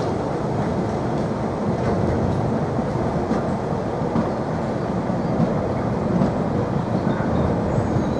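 Hanson bogie hopper wagons of a freight train rolling past close by, a steady rumble and clatter of steel wheels on the rails.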